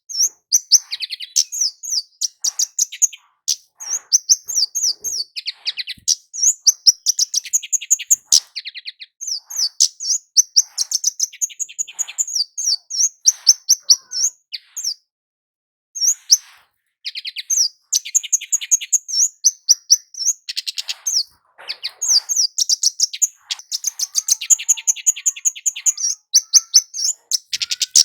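Kemade (flowerpecker) singing in rapid series of thin, high chirps and trills, with a pause of about a second just after halfway.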